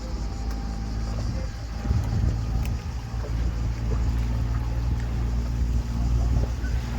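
Tour boat's engine running steadily, a low hum that grows louder about two seconds in.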